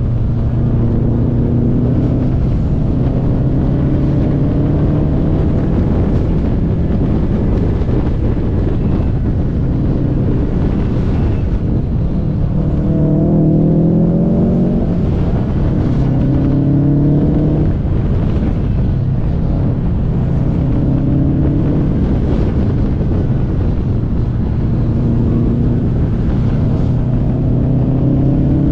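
Car engine accelerating and easing off through a run of bends, its pitch rising and falling every second or two, over a heavy steady rumble of road and wind noise.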